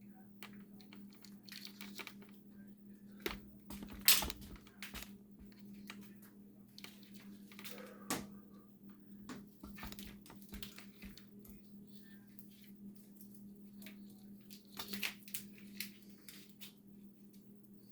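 Handling noise from a tangled cord being worked loose by hand: scattered rustles, clicks and small knocks, with one sharper knock about four seconds in, over a steady low hum.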